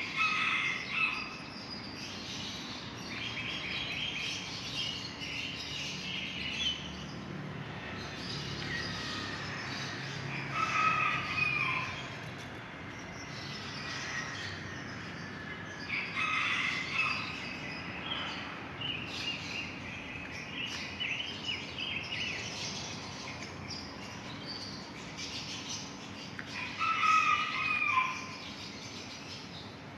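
Birds chirping and calling outdoors: irregular clusters of short high chirps, with louder calls about eleven seconds in and again near the end.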